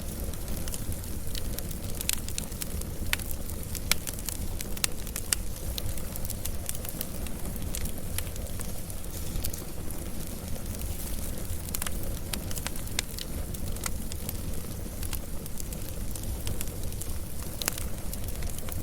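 Wood fire burning steadily, with a low rumble under frequent irregular sharp crackles and pops.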